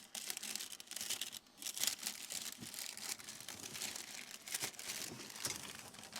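Baking paper being handled, crinkling and rustling with many small sharp crackles.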